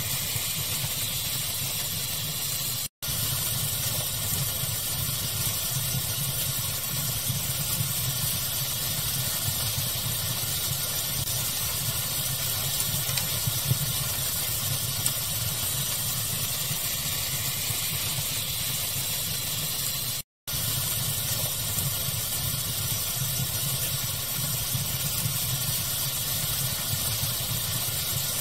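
Steady pink-noise hiss blended with the low rush and occasional faint crackles of a wood fire. The sound cuts out to silence for a moment twice, about 3 seconds in and about 20 seconds in.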